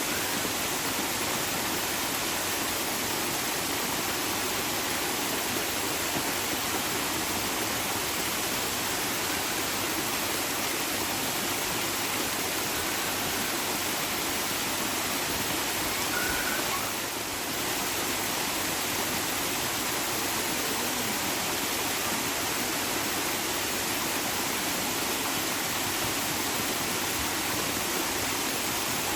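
Steady rushing of running water, like a stream or small waterfall, an even unbroken hiss with no changes in rhythm.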